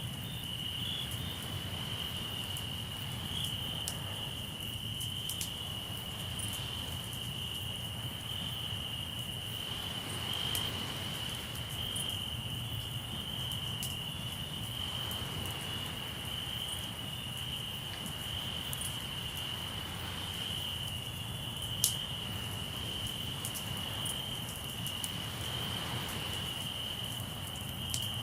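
Crickets trilling steadily in one continuous high-pitched chorus, over the scattered crackle of a campfire with one sharp pop about twenty-two seconds in.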